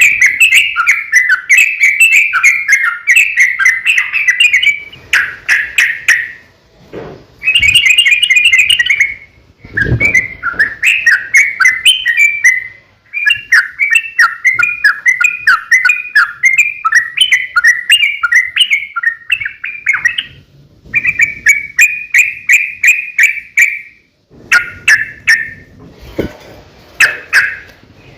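Yellow-vented bulbul song: long, fast runs of bubbling, chattering notes in phrases of several seconds, broken by short pauses.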